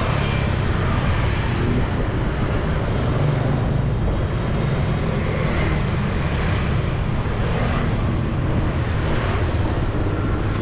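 City street traffic: a steady wash of passing vehicle engines and tyre noise, heard from a bicycle in the flow of traffic.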